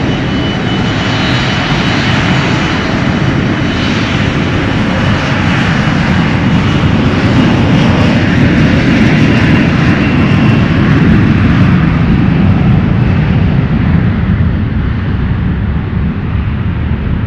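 Airliner passing with engine noise that swells to a peak midway and then fades, a thin high whine over it in the first half.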